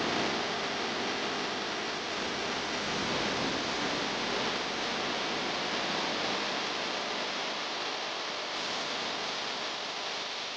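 Steady, even hiss with no distinct events, easing slightly near the end.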